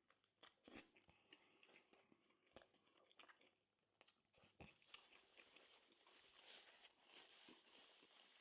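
Faint chewing: small wet mouth clicks and soft crunches from a person eating, coming irregularly and a little more often near the end.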